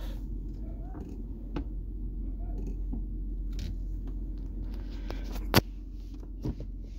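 Lexus LS460's V8 idling, a steady low hum heard inside the cabin, with scattered small clicks and knocks from handling and a sharp click about five and a half seconds in.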